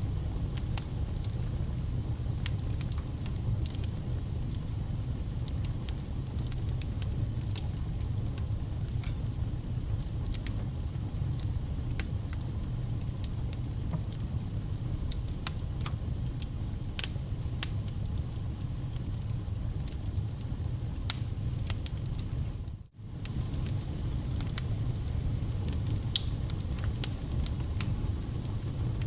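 Wood campfire burning: frequent sharp crackles and pops of burning logs over a steady low rumble of flames. The sound drops out for a split second about two-thirds of the way through.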